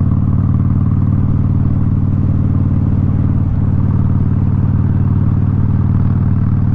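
Harley-Davidson Street Bob's V-twin engine running through a Vance & Hines exhaust while riding at a steady speed, its exhaust note holding one even pitch.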